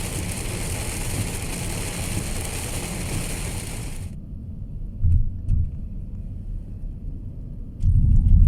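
Heavy rain hissing on a moving car along with low road rumble; about four seconds in, the rain sound cuts off abruptly, leaving quieter low rumbling with two louder low thumps.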